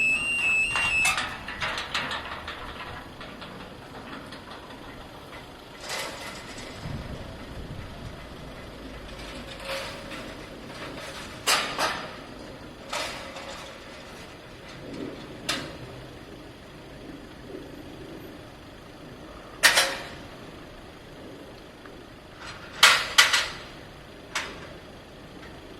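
Railway station sound: a steady low rumble, with a series of sharp knocks and clunks, the loudest about twenty seconds in and a close pair about three seconds later. The end of a music track is heard in the first second.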